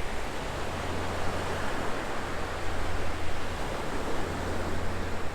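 Steady rushing noise of wind and sea at the shore, with a low wind rumble on the microphone that comes and goes.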